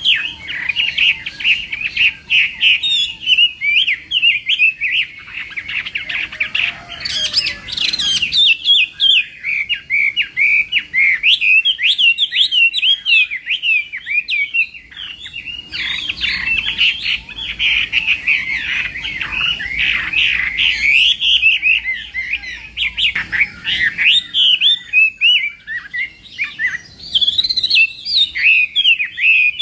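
Chinese hwamei singing a long, loud, rapid warbling song of quick varied notes, broken by brief pauses a few times.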